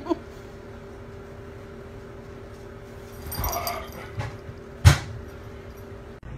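A dog giving two quick yips, then a short whimpering whine about three and a half seconds in, over a steady hum. A sharp knock about five seconds in is the loudest sound.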